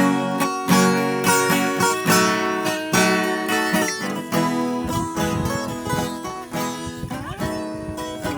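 Viola caipira playing an instrumental break: a plucked, picked melody over strummed chords, with deeper notes coming in about halfway through.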